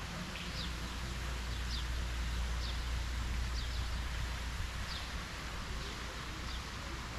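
A bird repeating a short, high, falling chirp about once a second, over a steady outdoor hiss and a low rumble.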